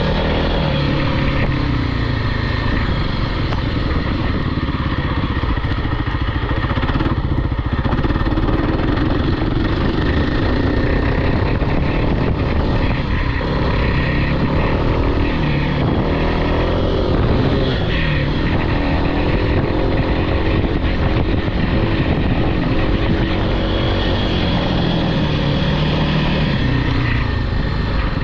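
Off-road vehicle engine running continuously, its pitch rising and falling as the throttle is worked up and down.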